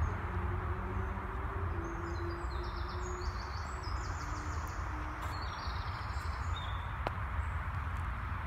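Small birds chirping in short, high notes, with a busy run of calls in the middle, over a steady low rumble. A single sharp click comes near the end.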